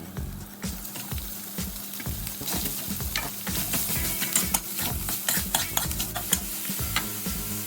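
A holy basil stir-fry sizzling in a hot pan while a spatula stirs it, with many short scraping clicks of the spatula against the pan. The sizzle grows louder about two and a half seconds in.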